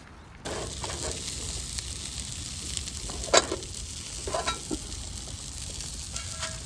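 Pork ribs sizzling in a hot pan: a steady frying hiss that starts abruptly about half a second in, with a few sharp pops and clinks through it, the loudest about three and a half seconds in.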